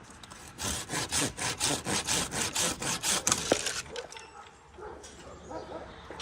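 Handsaw cutting dead aspen wood in quick back-and-forth strokes, about four or five a second, stopping a little before four seconds in.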